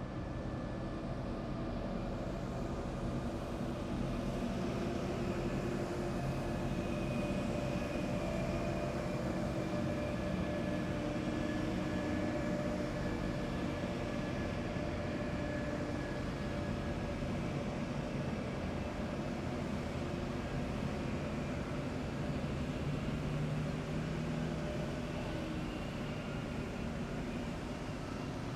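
A column of heavy military vehicles driving past in an even stream, with steady engine and tyre noise, a low drone and several held whining tones that swell and fade slowly.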